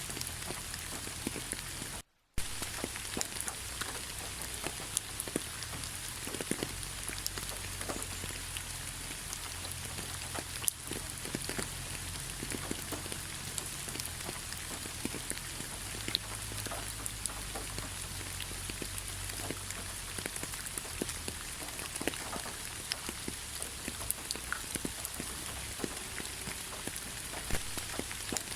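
Steady rain falling on a forest road, a continuous hiss with many separate drops striking close by. The sound cuts out briefly about two seconds in.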